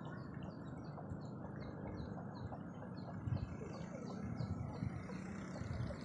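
A bird calling a fast, even series of short, high, slightly falling chirps, about five a second, over a steady low rumble, with a couple of dull low thumps about three seconds in.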